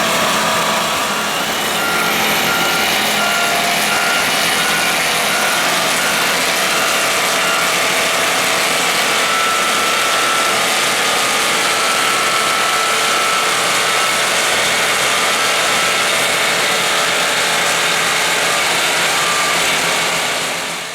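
Vohl snow blower running steadily, loading snow into trucks: constant engine and blower noise, fading out near the end.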